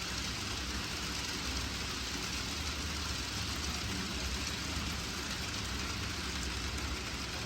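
N-gauge model freight train running on a modular layout: a steady rumble and hiss of small wheels rolling over the track, with no change in level.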